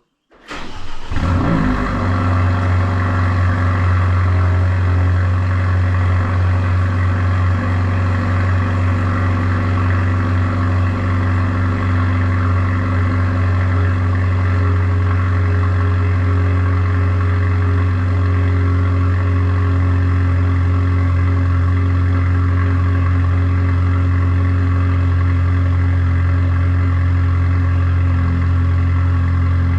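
Renault Mégane 4 RS Trophy 300's turbocharged 1.8-litre four-cylinder engine cold-starting on its stock exhaust. It catches about half a second in with a brief flare of revs, then settles into a steady cold idle.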